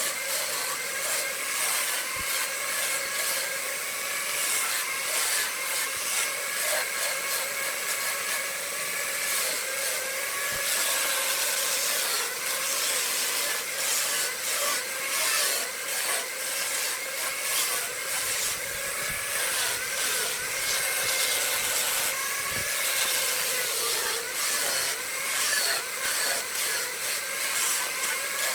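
Wood lathe running steadily, its motor giving a slightly wavering hum while a hand tool works the spinning wood with a continuous scraping hiss.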